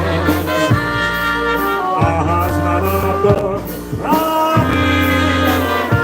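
Live polka band playing a traditional Polish waltz, in an instrumental stretch between sung lines.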